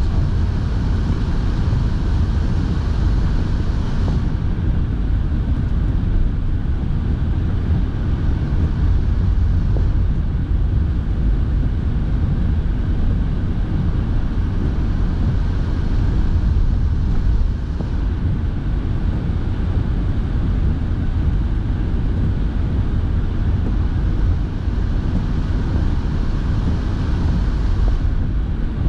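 Steady low rumble inside a moving car's cabin: engine and road noise, with the car's heater blowing.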